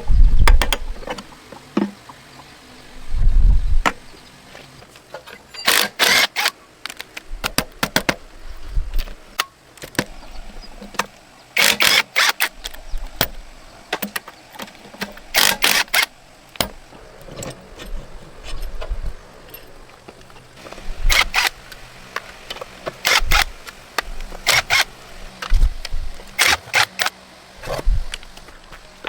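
Irregular sharp knocks and clanks of hand tools working on metal parts, with several louder clusters of quick strikes spread through the stretch.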